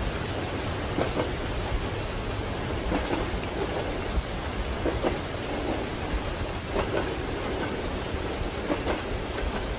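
Steady rain on a train compartment window over the low rumble of the moving train, with scattered soft knocks, several of them in pairs.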